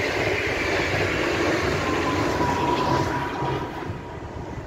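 NS ICMm electric intercity train passing the crossing: a rushing rail noise swells to its loudest about three seconds in, then drops away. A whine falls in pitch as the train goes by.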